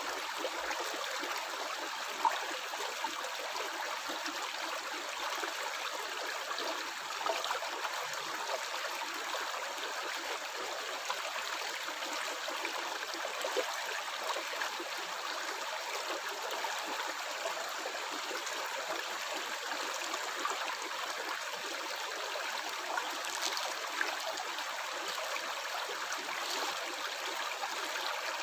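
Flowing river water, a steady rush with gurgling and the odd small splash.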